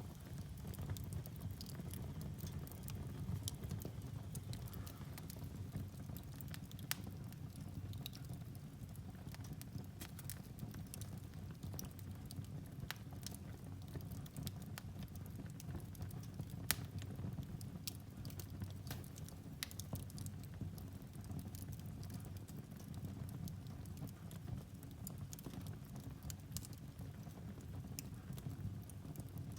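Firewood burning in a fireplace: a steady low rumble of the flames with scattered sharp crackles and pops at irregular moments, one louder pop near the middle.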